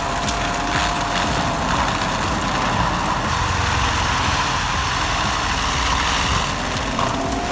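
Engine of heavy machinery running steadily, with a faint constant whine over the engine noise.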